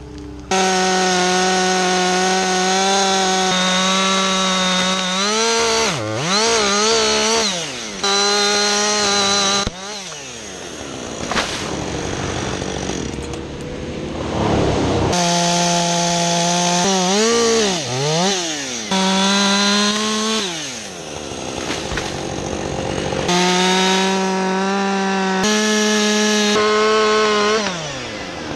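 Gas chainsaw running at full throttle in long cuts of several seconds each, the revs dropping and climbing back between cuts about half a dozen times.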